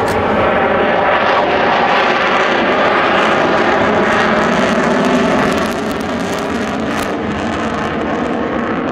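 Loud, steady engine noise of a large aircraft flying past at an airshow, easing slightly a little past halfway.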